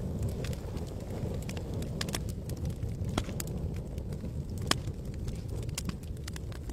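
Campfire burning and crackling: frequent sharp snaps and pops over a steady low rumble, with one louder pop a little under five seconds in.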